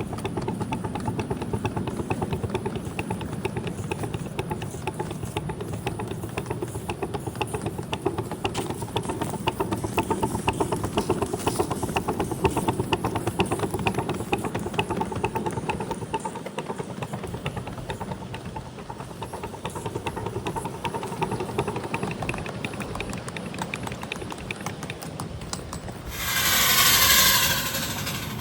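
7.5-inch gauge miniature train running along the track, with a steady rumble and rapid repeated clicking of wheels and running gear. About two seconds before the end comes a loud, short hiss.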